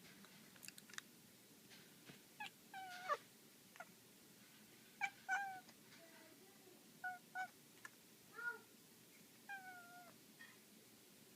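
Domestic cat giving a string of short, faint meows and chirps while playing, about nine calls, some bending down in pitch at the end.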